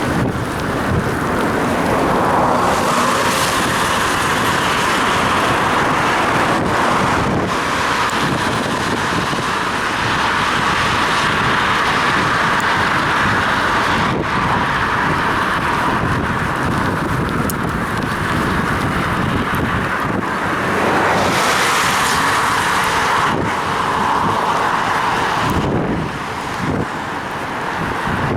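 Steady noise of cycling in city traffic on a wet road, heard from a head-mounted action camera: wind on the microphone and car traffic, with a few faint knocks. The loudness dips slightly near the end.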